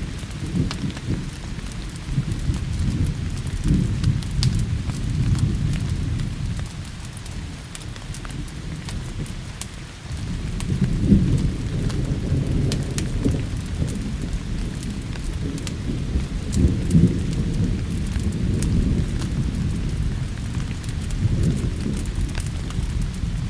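Thunder rumbling in long, rolling swells over steady rain, easing off for a few seconds before building again about halfway through, with scattered sharp clicks throughout.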